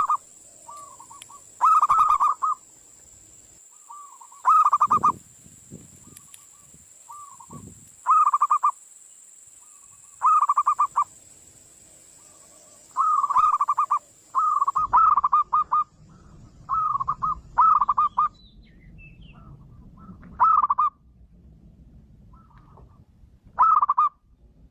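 Zebra dove (perkutut) cooing: a dozen short, rapidly trilled coo phrases, each under a second, repeated every one to three seconds. A faint steady high-pitched tone stops a little past halfway and a low background rumble takes over.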